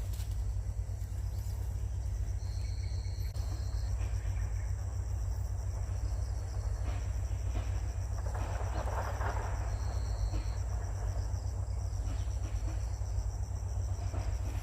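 Outdoor ambience: a steady low rumble under a continuous high insect chorus, with two short thin high whistles, one about two and a half seconds in and one about ten seconds in, and a brief rustle around eight to ten seconds.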